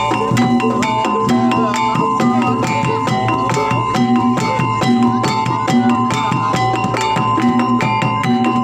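Live jaranan music from a Javanese percussion ensemble: drums and tuned struck metal instruments play a fast, busy, steady rhythm of repeating notes, with a high note held steadily above it.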